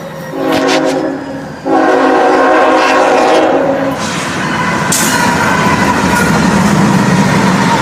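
Norfolk Southern freight locomotive's horn sounding a short blast and then a longer one of about two seconds, giving way about four seconds in to the loud, steady rumble and clatter of the train passing close by.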